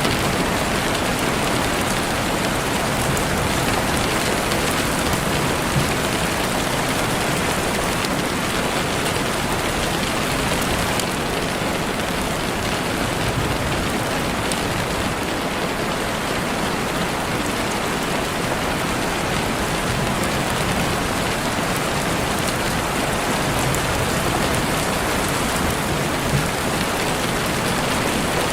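Heavy rain falling steadily on leaves and the forest floor, a dense even patter.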